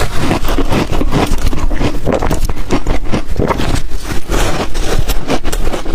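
Ice coated in matcha and milk powder being bitten and chewed: a loud, continuous run of crunching and cracking.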